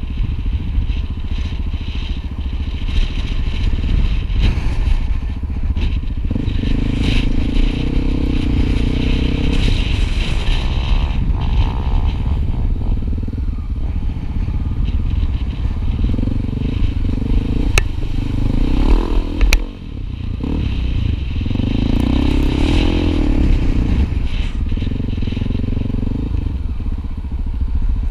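Honda XR250 Tornado single-cylinder trail motorcycle running under way, its engine note rising and falling with the throttle over a heavy low rumble. Two sharp clicks come about two-thirds of the way through, followed by a brief drop in level.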